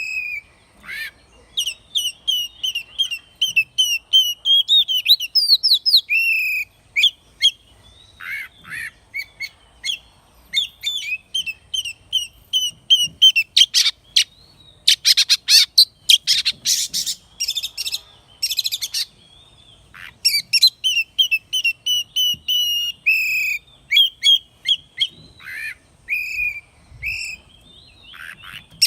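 Oriental magpie-robin singing a long, varied song of clear whistled phrases and quick runs of notes, with a stretch of harsh, scratchy notes about halfway through.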